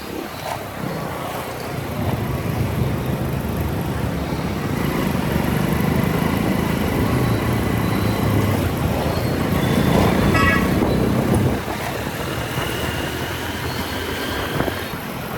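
Motorcycle running through city traffic, heard from the rider's helmet camera as a steady low rumble of engine, tyres and wind that drops off sharply about three-quarters of the way through. A vehicle horn sounds briefly about ten seconds in.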